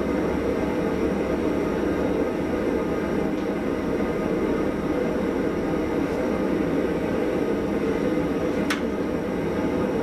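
Lit blacksmith's forge running with a steady roar of fire and air, with one sharp metallic clink about nine seconds in.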